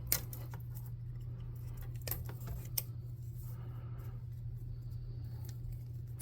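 Sharp clicks and taps of thin balsa wood strips being cut to length and handled: a loud click right at the start, then a few lighter ones, two of them around two to three seconds in, over a steady low hum.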